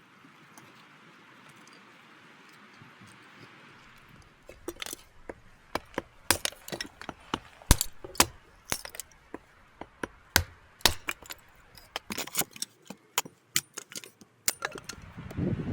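An irregular series of sharp clicks, clinks and knocks, starting about four seconds in after faint quiet outdoor ambience and stopping shortly before the end.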